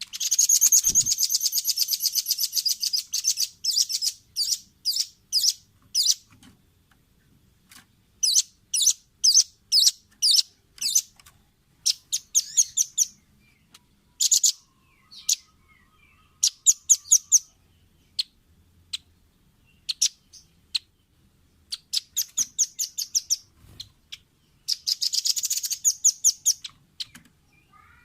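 Velvet-fronted nuthatch calling: sharp high-pitched chip notes, a long rapid trill at the start, separated bursts and short trills through the middle, and another rapid trill near the end.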